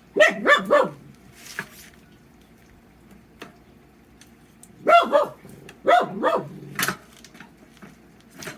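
A dog barking: a quick run of three barks at the start, then a second run of several barks about five seconds in.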